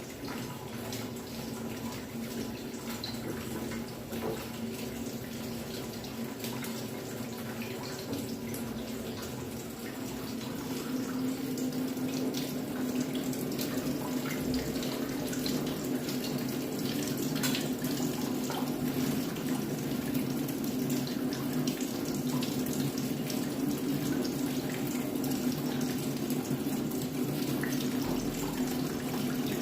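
Steady rush of running water, like a tap running, growing louder about ten seconds in.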